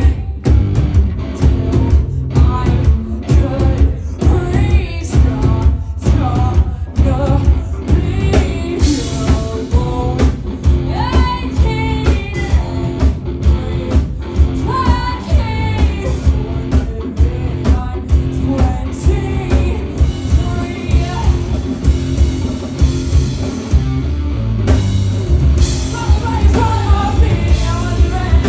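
Live rock band playing, with a singer's voice over guitar and a steady drum beat.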